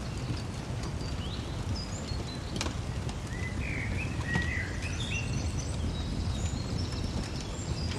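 Fireplace crackling over a steady low rumble, with a few sharp pops, while small birds chirp in short high notes, busiest from about three seconds in.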